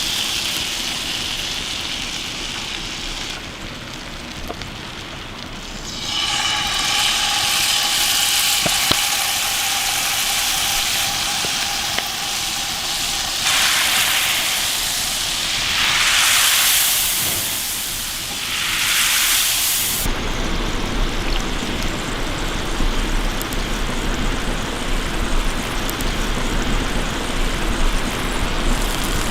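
Hissing and sizzling of campfire cooking, in several cut-together stretches. One stretch carries a faint whistling tone, the next has three swelling hisses, and from about two-thirds of the way in a denser, grainier sizzle runs on with a low hum under it.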